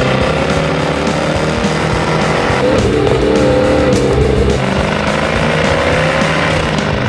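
High-performance car engine accelerating hard, its note climbing in pitch, breaking off and climbing again about three and four and a half seconds in, over background music.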